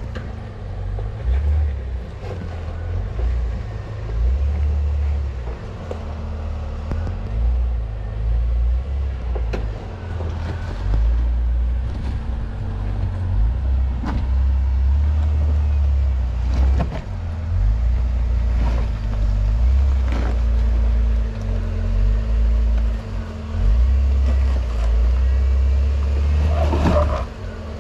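Jeep engine running steadily at low speed on a rocky trail, with a low hum. Wind rumbles on the microphone, and several sharp knocks come through over the second half.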